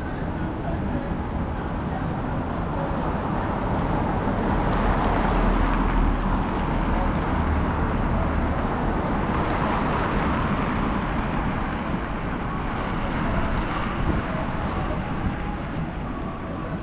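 City street traffic noise, steady road rumble that swells in the middle as vehicles pass close by, then eases off.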